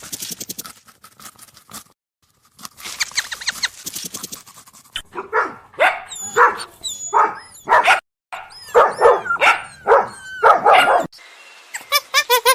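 Dog barking and yelping: a string of short, pitched barks in the middle of the stretch, after a rapid rattling sound near the start.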